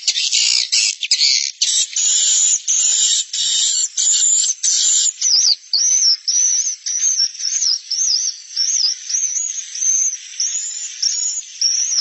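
Edible-nest swiftlet roosting-call lure sound ('suara inap'), played to draw swiftlets into a bird house to stay the night. It is a dense stream of rapid chirps and clicking twitters, becoming a run of quick wavering chirps about five seconds in.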